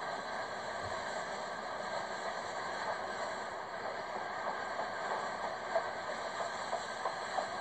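CSX train running over a railroad bridge: a steady rumble and rattle, with a few sharp clicks in the second half.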